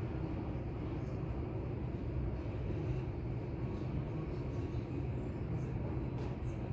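Steady low background hum and rumble, even in level throughout.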